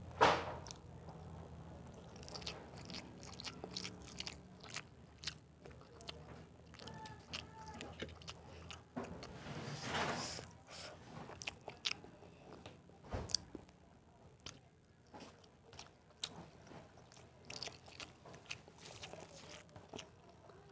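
A person chewing and biting food close to the microphone, with soft, irregularly spaced wet mouth clicks and smacks and a short slurp of noodles right at the start.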